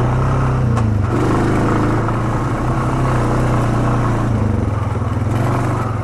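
ATV engine running steadily under the rider, its pitch shifting a little as the throttle changes. A single short click sounds a little under a second in.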